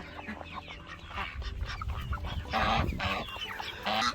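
A flock of young turkeys calling, with many short calls overlapping one another.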